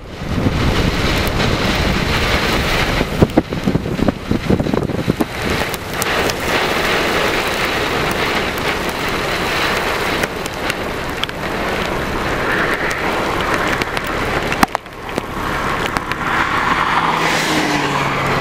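Steady rush of wind and heavy rain from a tornadic thunderstorm, with a cluster of sharp taps about three to five seconds in.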